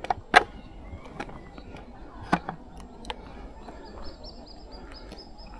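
A few sharp clicks or knocks, the loudest about half a second in, then faint high rapid bird chirping from near the end.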